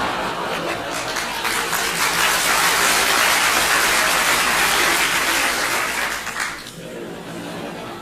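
Audience laughter mixed with applause, like a studio laugh track: it swells about a second and a half in, holds loud through the middle, and dies away about six and a half seconds in.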